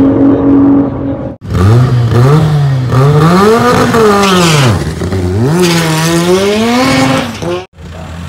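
VW drag car's engine revving hard on the start line, its pitch climbing, dropping right down and climbing again. Around it, separate clips of another engine held at a steady high note.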